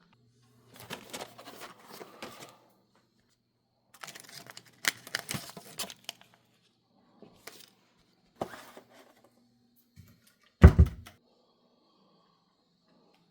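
Indoor handling noises: several short spells of clattering and rustling, then one loud thump near the end.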